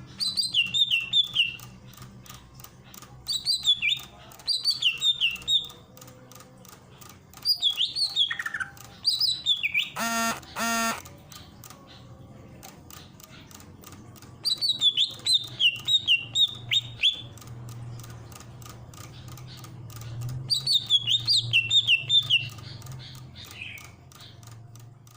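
Cucak ijo (green leafbird) singing in about five bouts of quick, high chirped phrases, each a run of fast falling notes, with a loud harsh two-note call about ten seconds in. A steady low hum runs underneath.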